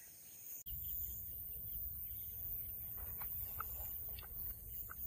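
Faint outdoor ambience with a low steady rumble, and from about three seconds in a series of short, high bird chirps.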